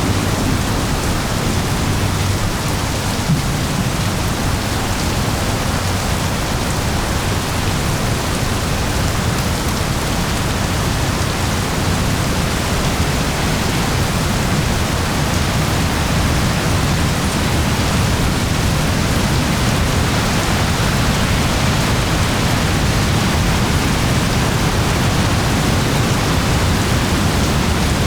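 Steady rain: an even, unbroken hiss with a soft low rumble underneath.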